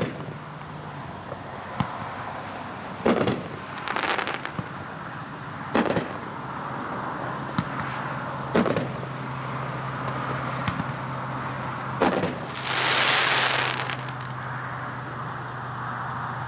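Wrecking Crew, a seven-shot 350-gram consumer fireworks cake, firing: sharp reports of shells breaking every couple of seconds, one followed by a short spell of crackling. A louder rushing burst comes about thirteen seconds in.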